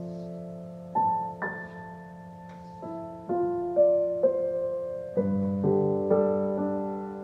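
Slow solo piano music: single notes and chords struck one after another, each left to ring and fade.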